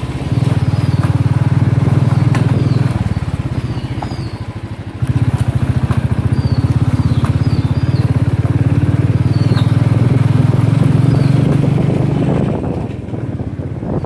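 Royal Enfield Thunderbird's single-cylinder engine running on the move, a steady rapid beat of exhaust pulses. It eases off about three seconds in, picks up again about five seconds in, and eases off again near the end.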